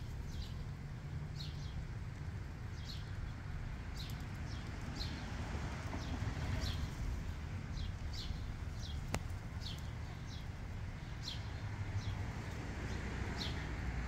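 Short, high bird chirps falling in pitch, repeating roughly once a second, over a steady low rumble. A single sharp click about nine seconds in.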